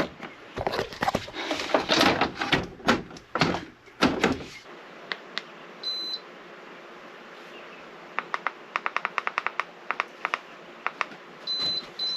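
Handling knocks and rustles, then a MrCool mini-split heat pump's indoor unit gives a short high beep. A run of light clicks, several a second, follows, and the unit beeps twice more near the end.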